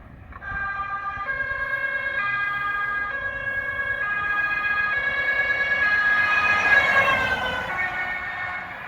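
Emergency vehicle's two-tone siren switching between a high and a low note about once a second. It grows louder as the vehicle approaches, then drops in pitch and fades as it passes.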